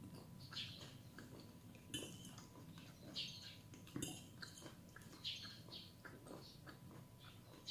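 Soft close-up chewing and mouth sounds of a person eating, repeating every half second or so. Cutlery clinks sharply on a plate about two seconds in and again about four seconds in.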